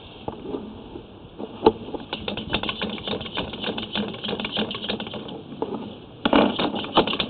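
Sewer inspection camera being pushed along a drain line, its head and push rod knocking and clicking irregularly against the pipe, thickening after about two seconds with a louder burst of knocks near the end.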